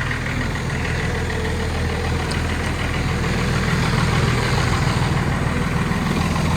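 Second-generation Dodge Ram 3500's 5.9 Cummins diesel idling steadily just after a cold start, with the engine still cold.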